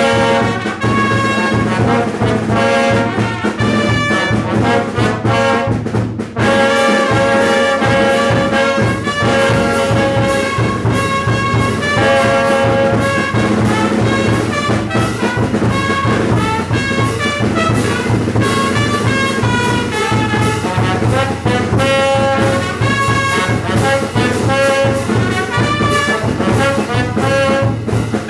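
Mexican banda brass band playing: trumpets and trombones carry a melody over a pulsing bass line and steady beat, with a brief break about six seconds in before the full band comes back.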